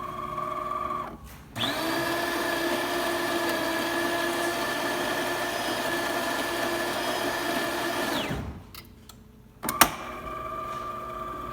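DeLonghi Perfecta super-automatic espresso machine starting a brew cycle: a brief whirr of the brew-unit motor, then the built-in grinder running steadily for about six and a half seconds before stopping. About ten seconds in a sharp click sounds, and the brew-unit motor whirrs again, its whine starting to drop at the very end.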